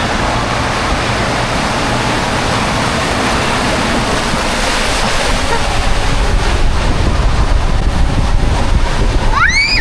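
Rushing water and wind buffeting the microphone as a raft runs down a water slide, with the low rumble growing stronger about six seconds in. Near the end comes a short, high shriek that rises and falls in pitch.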